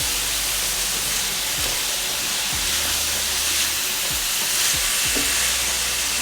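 Diced vegetables sautéing in olive oil in a pan, a steady sizzle, with a few faint knocks scattered through it.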